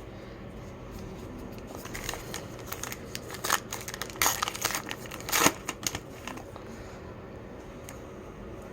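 Crinkling and tearing of a trading-card pack wrapper being opened: irregular crackles from about two seconds in, the loudest near five and a half seconds, dying away about a second later.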